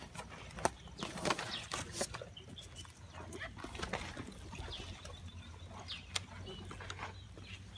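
Birds giving short high chirps several times, with scattered sharp snaps and a low steady hum underneath.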